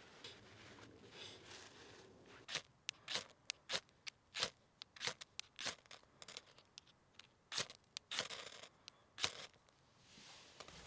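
A series of sharp, irregular clicks and snips, about a dozen spread over several seconds, the loudest near the middle and near the end.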